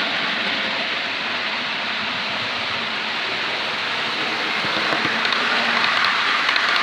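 Model railway locomotive running on the track: a steady whirr of its small electric motor and wheels on the rails, growing louder over the last couple of seconds.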